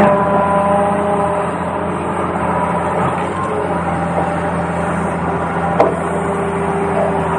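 Radio-controlled toy's electric motor and gears running steadily with a pitched hum, shifting a little in pitch now and then, with one sharp knock near the end.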